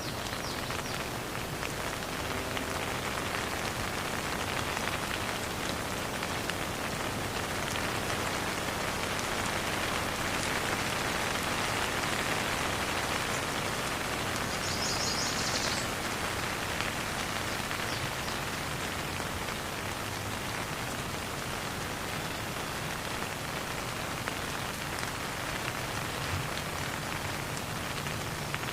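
Steady rain falling, an even hiss of drops on surfaces with no thunder. About halfway through there is a brief, high, rapid chirping.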